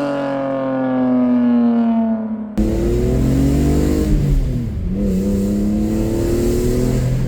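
BMW E46 M3's straight-six through a Valvetronic exhaust: first the engine note falls in pitch and fades as the car passes, then an abrupt cut about two and a half seconds in to the engine accelerating hard, its pitch climbing, dropping at a gear change about four and a half seconds in, and climbing again.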